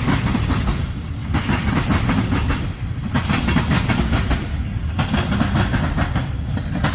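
Freight train's loaded tank cars rolling past, with a steady low rumble and the clickety-clack of wheels over the rail joints. The hiss rises and falls about every two seconds as each car goes by.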